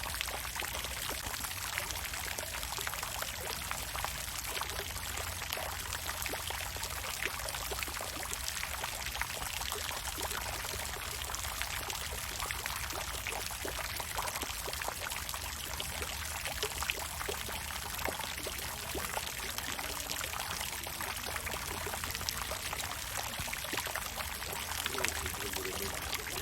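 Water fountain running steadily: water pouring and splashing continuously, with many small droplet splashes over a low rumble.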